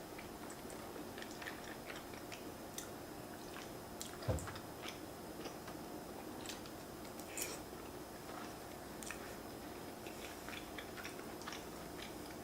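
A person chewing and eating king crab fettuccine Alfredo, with many small wet mouth clicks and smacks. A single louder thump comes about four seconds in.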